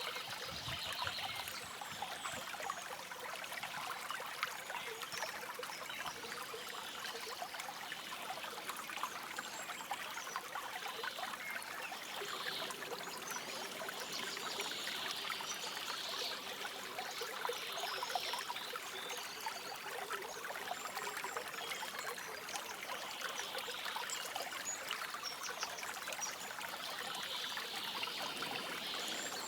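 Forest stream trickling and babbling over stones, a steady, even flow of water.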